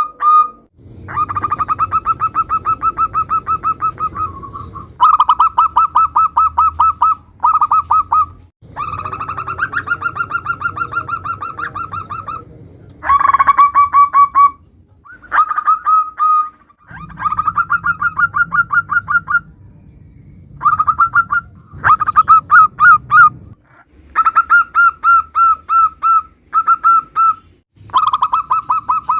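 Zebra doves (perkutut) calling: bursts of rapid, evenly repeated notes, each burst lasting one to three seconds, with short pauses between them.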